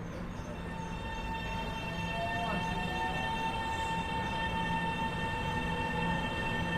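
A train approaching and growing steadily louder, a steady high-pitched whine over its rumble.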